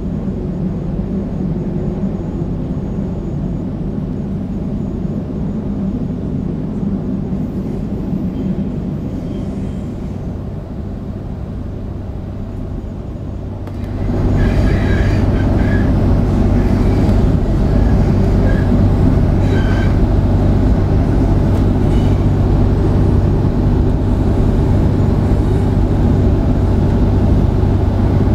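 Sydney electric suburban train running along the track, heard from inside the carriage: a steady low hum and wheel noise. It gets clearly louder about halfway through, with a few short high squeaks.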